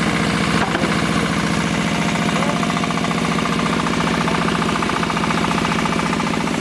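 Diesel engine of a QTJ4-40 hydraulic concrete block-making machine running steadily, with a fast, even firing beat.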